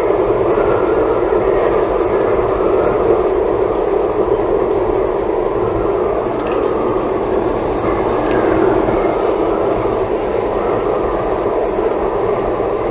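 Steady road and wind noise inside the cabin of a Toyota Tank driving at highway speed in a strong storm wind.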